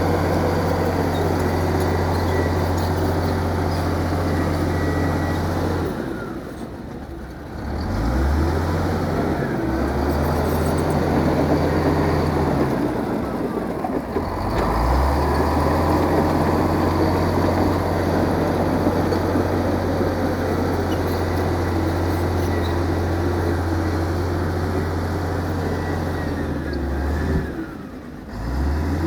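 Heavy diesel engine of earthmoving machinery running steadily, dropping away briefly about six seconds in and again near the end, its pitch sliding as it comes back.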